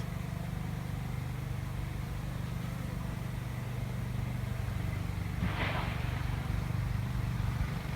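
Honey bee swarm buzzing in a steady low drone as thousands of bees fly around and crowd into a swarm trap. A brief burst of rustling noise comes about five and a half seconds in.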